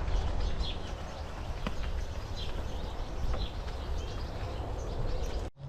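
Wild birds giving short chirps every second or so over a steady low outdoor rumble, with a faint click now and then.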